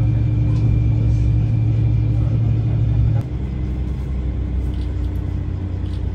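Steady low rumble of an ET122 diesel railcar's engine and running gear heard from inside the passenger cabin, with a constant hum over it. About three seconds in, the rumble steps down a little and carries on.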